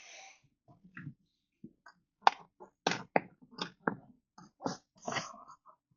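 Scattered light clicks and taps, about a dozen at irregular intervals, from hands working metal and plastic parts inside a pickup truck's body panel.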